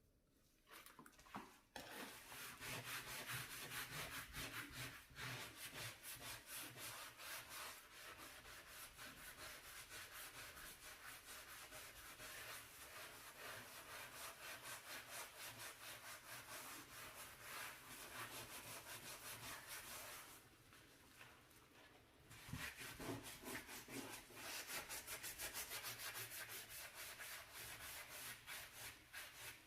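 A brush scrubbing a dirty stovetop or oven surface in rapid back-and-forth strokes. The scrubbing starts about two seconds in, stops briefly about two-thirds of the way through, then starts again.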